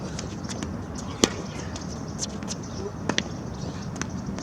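Tennis rally: the ball is struck by rackets and bounces on the court, giving sharp pops, the loudest about a second in and two more close together around three seconds, with fainter ticks in between.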